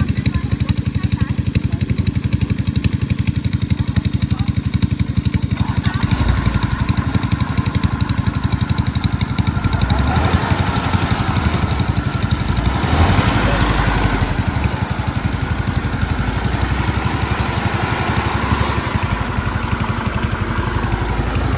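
Engine of farm machinery in a rice paddy running steadily with a fast, even pulse, growing louder and busier from about ten to fourteen seconds in, then settling again.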